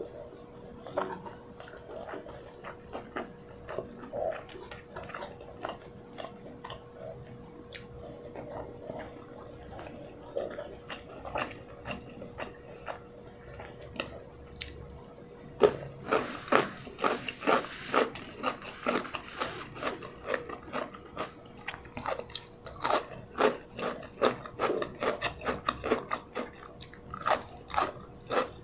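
Close-miked eating by hand: soft wet chewing of rice and chicken with small mouth clicks, then, about halfway through, loud crisp crunching as a cucumber slice is bitten and chewed.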